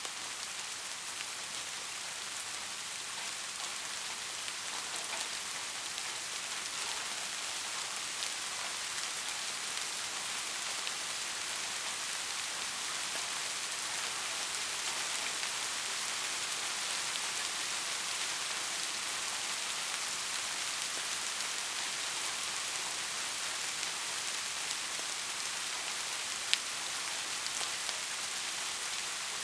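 Steady rain falling, a dense hiss of many small drop ticks that builds slightly over the first several seconds, with one sharp drop or tap louder than the rest near the end.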